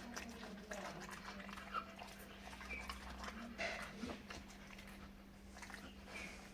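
A dog making a few faint, brief high sounds over a steady low hum and scattered small clicks.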